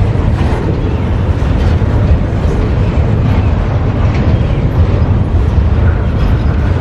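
Freight train rolling past close by: a loud, steady rumble of cars on the rails.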